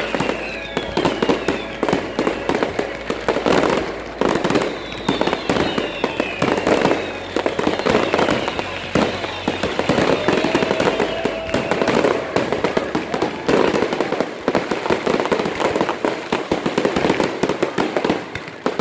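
Fireworks display going off continuously, with rapid crackling pops and bangs. A few falling whistles sound in the first several seconds.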